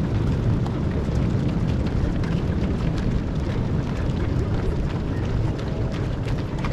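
Wind buffeting the microphone as a steady, uneven low rumble, with the quick patter of many runners' footsteps on the road.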